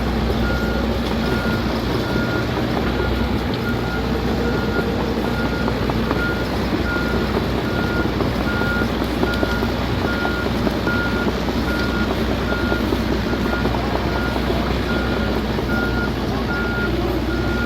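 An excavator's engine running steadily while its travel alarm beeps at an even pace, about once a second.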